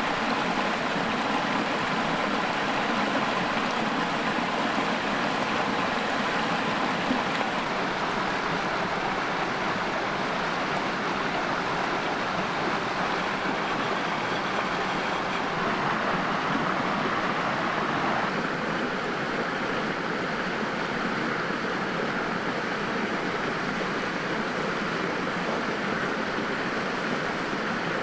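Steady rushing of a mountain creek flowing over rocks, its tone shifting slightly about two-thirds of the way in.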